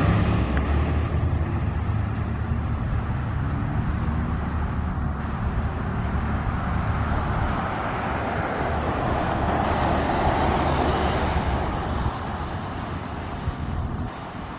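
Fire truck engine running with road noise, a steady low rumble that slowly fades over the last few seconds as it moves away.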